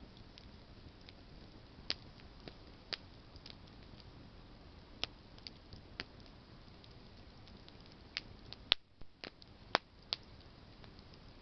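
Campfire of burning branches crackling: irregular sharp pops and snaps over a faint steady hiss, with a cluster of louder pops near the end.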